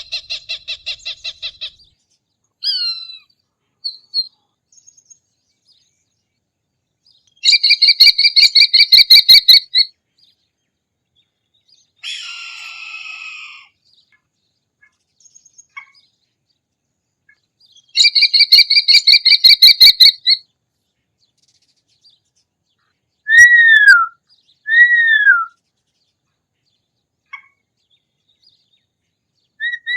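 Recorded hawk calls separated by silences: twice a rapid series of sharp, high, repeated notes, about four or five a second for a couple of seconds, then two short down-slurred screams close together near the end, with a few faint single chirps in between.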